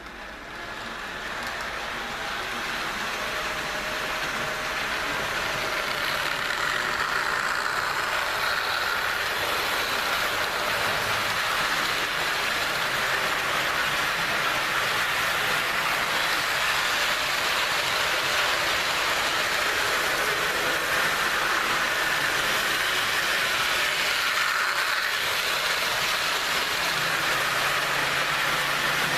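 HO scale Jouef RTG Turbotrain model running on track: a steady whirring hiss of motor and wheels that grows louder over the first few seconds, then holds even.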